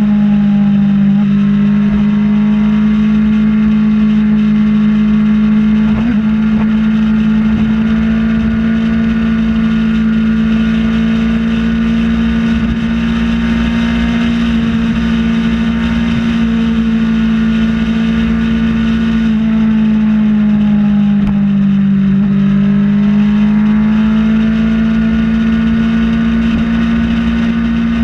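Kawasaki Ninja ZX-6R's inline-four engine running at a steady highway cruise, its pitch sagging a little about twenty seconds in and then rising back, over low rumbling wind noise.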